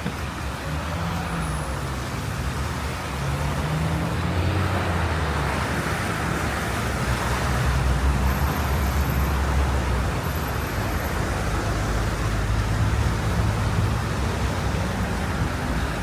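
City street traffic: motor vehicle engines running with a low, wavering hum over road noise, growing louder toward the middle and easing off a little near the end.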